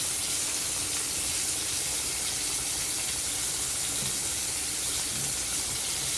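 Flour-coated chicken pieces frying in a pot of hot oil: a steady sizzle.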